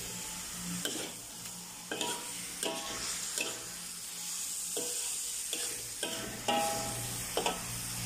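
Chicken liver and petai frying in a metal wok, sizzling steadily while a metal spatula stirs and scrapes through them, clanking against the wok about once a second.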